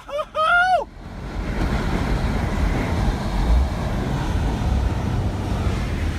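Strong wind buffeting the microphone, a steady low rumble, with a short vocal cry in the first second.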